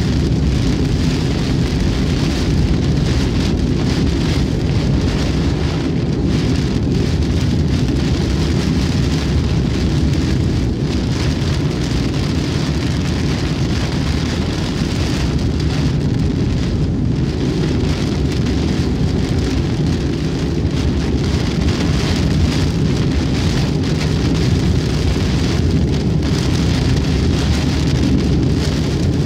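Heavy rain falling on a car's windshield and roof, heard inside the moving car along with steady tyre noise on the wet highway.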